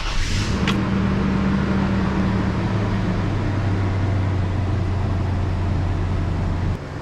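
Turbocharged Toyota 5VZ-FE 3.4-litre V6 firing on its first start after the turbo install and running at a fast idle that settles down. It is a steady, even run that gets quieter near the end.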